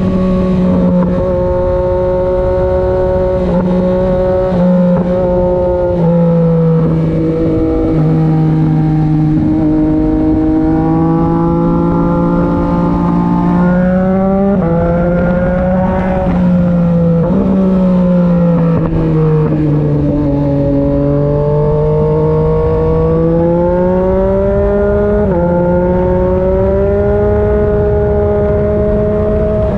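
Yamaha MT-09 SP three-cylinder engine through an SC-Project aftermarket exhaust, under way on a ride. The engine pitch climbs and falls with the throttle and jumps suddenly several times at gear changes.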